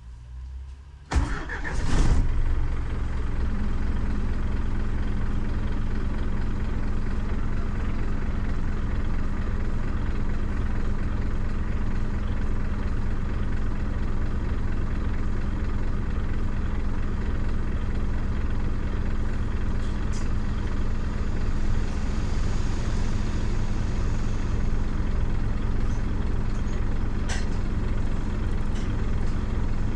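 Scania CN270UB city bus's diesel engine heard from on board. It comes in suddenly with a couple of knocks about a second in, then runs steadily with a constant drone as the bus drives.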